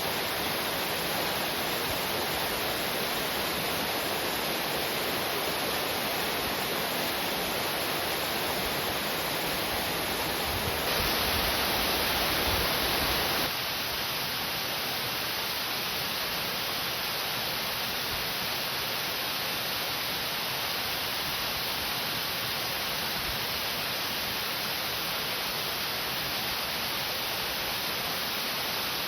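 Waterfall water running over rock face in a steady, even rush. About eleven seconds in it swells slightly for a couple of seconds, then settles back a little softer and thinner.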